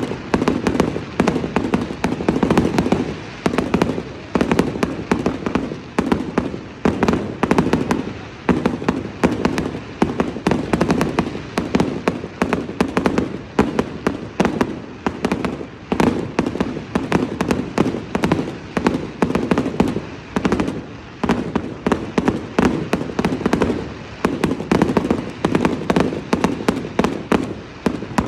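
Fireworks going off in a dense, continuous barrage: many sharp bangs and crackles a second, with no break.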